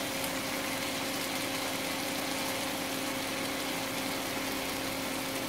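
Tomato-onion masala sizzling steadily in oil in a pan, with a steady low hum underneath.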